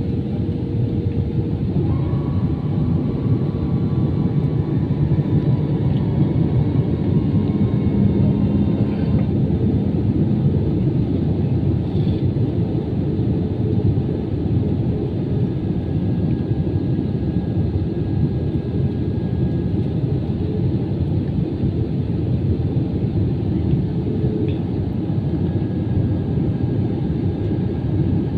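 Airbus A320 cabin noise: a steady rumble of the engines and airflow heard from inside the passenger cabin, with faint steady tones over it in the first ten seconds or so.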